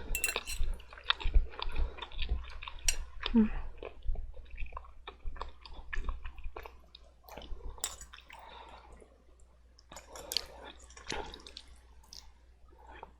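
Close-up wet chewing and mouth sounds of someone eating black bean noodles, with many irregular small smacks and clicks that thin out toward the end. A steady low hum runs underneath.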